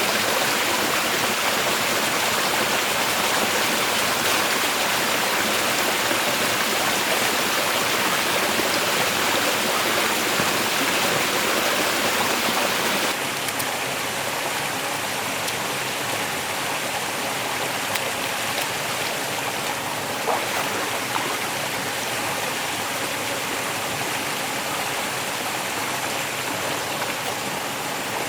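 Steady rushing of flowing water, like a stream or small waterfall, with a few faint ticks; it drops a little in level about halfway through.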